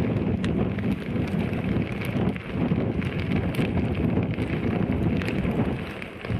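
Wind buffeting the camera microphone: a loud, steady low rumble that swells and dips in gusts.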